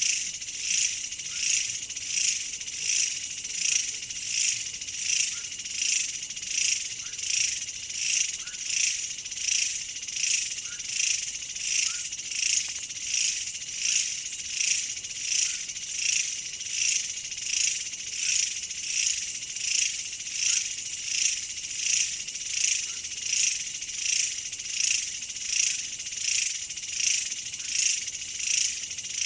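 A chorus of insects calling, a shrill, even pulsing about three times every two seconds that never lets up.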